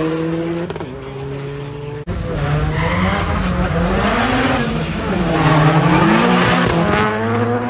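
Tuned VW turbodiesel (TDI) drag cars at full throttle. An engine runs hard as a car speeds past, then after a cut about two seconds in, engines rev up and down repeatedly as cars launch off the line.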